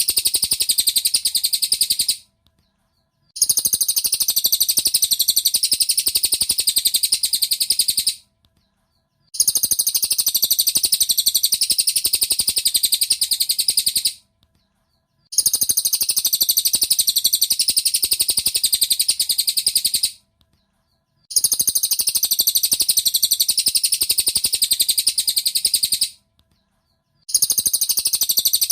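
Cililin bird singing: a rapid, high, dense twittering song in stretches of about five seconds, each followed by a pause of about a second, repeating at an even pace like a looped masteran recording.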